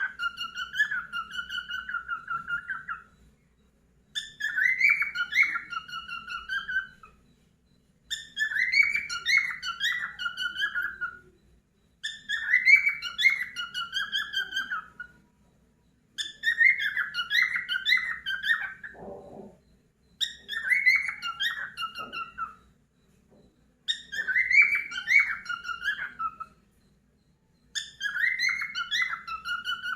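Pet cockatiel whistling the same short tune over and over, one phrase about every four seconds, each a run of rising and falling notes ending on a held note.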